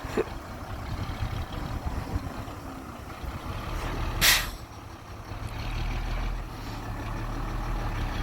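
Diesel dump truck engine running low and steady, with one short hiss of an air brake about four seconds in.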